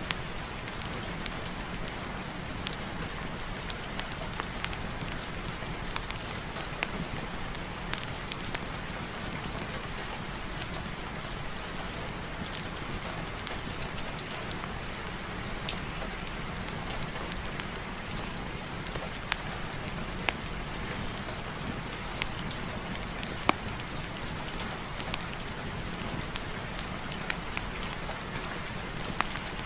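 Steady rain, an even hiss with many scattered sharp ticks and pops from drops striking a surface.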